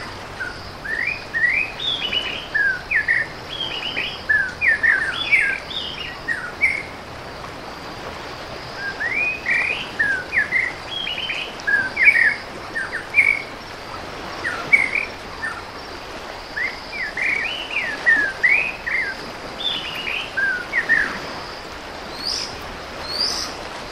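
Birds chirping and singing: many short, quick chirps in bunched bursts with brief lulls between them, over a faint steady high-pitched hiss.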